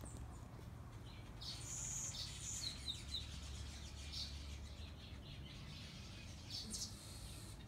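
Birds chirping: a quick run of short, high chirps about one and a half to three seconds in, and a few more scattered chirps later, over a low background rumble.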